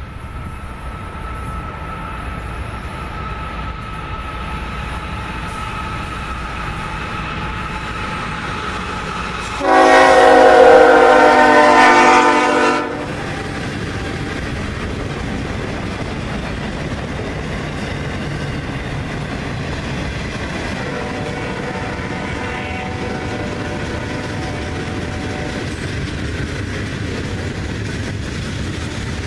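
CSX manifest freight train with steady diesel locomotive and rail rumble. Its air horn sounds one loud blast of several tones about ten seconds in, lasting about three seconds, and a second, fainter blast around twenty seconds in.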